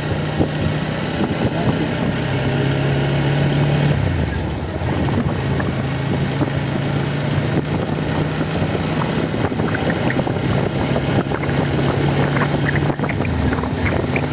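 Motorcycle engine running while riding, with wind noise on the microphone. The engine note drops briefly about four seconds in and again near the end, as the rider eases off.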